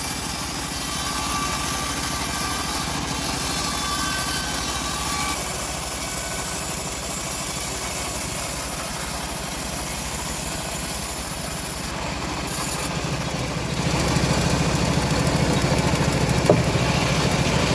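Engine of a locally assembled bandsaw sawmill running steadily, getting louder about three-quarters of the way through, with a single sharp click near the end.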